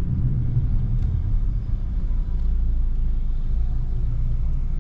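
Low, steady rumble of a car's engine and cabin at low speed or idle, heard from inside the car as it waits to yield at a roundabout.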